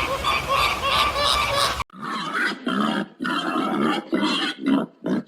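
Ducks quacking in quick succession, about four calls a second, then an abrupt cut at nearly two seconds in to an animal giving a series of short, low grunts with brief gaps between them.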